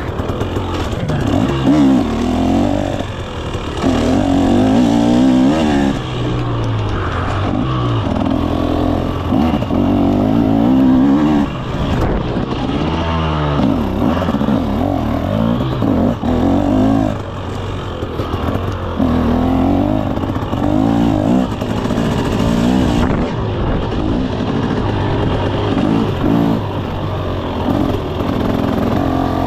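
KTM 300 SX two-stroke dirt bike engine being ridden, revving up and falling back over and over as the throttle is worked.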